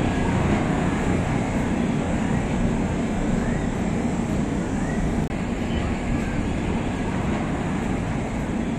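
Passenger train under way, heard from on board: a steady rumble of the coach running on the track.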